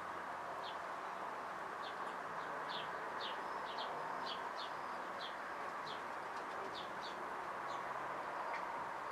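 Small birds chirping: about a dozen short, high, falling chirps over a steady hiss.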